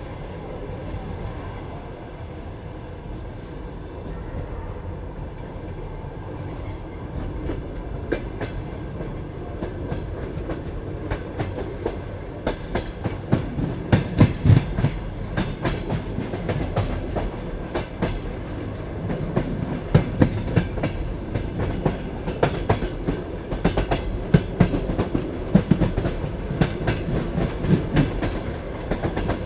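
Passenger carriage rolling on the rails: a steady low rumble with the clickety-clack of wheels over rail joints, the knocks growing louder and more frequent about halfway through.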